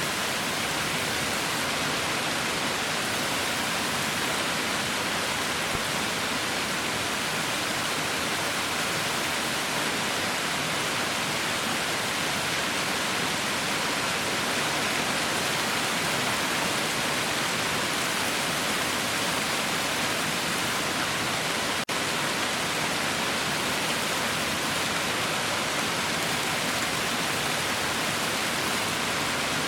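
Heavy rain falling steadily, a dense, even hiss with no separate drops standing out. A split-second dropout comes about two-thirds of the way through.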